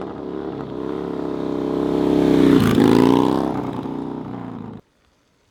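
Harley-Davidson Dyna FXDX V-twin engine revving hard, its pitch climbing and falling with the throttle, loudest about halfway through; the sound cuts off suddenly near the end.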